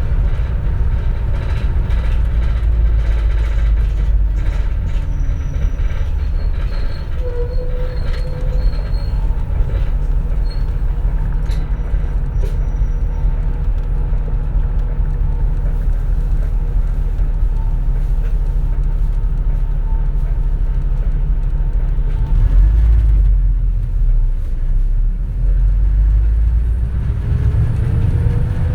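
Interior running noise of a 2004 CNG (compressed natural gas) city bus: a steady low drone of engine and road. A rising whine comes in near the end.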